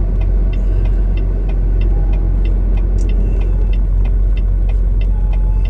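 Semi-truck's diesel engine heard from inside the cab, a steady low rumble with a light, regular ticking about three times a second.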